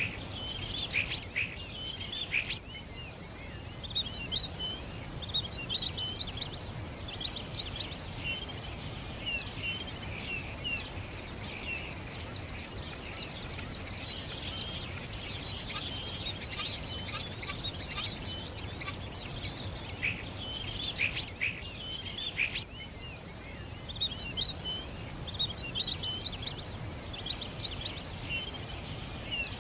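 Several small songbirds chirping and twittering in quick, overlapping calls, busiest in two flurries about halfway through, over a steady low background rumble.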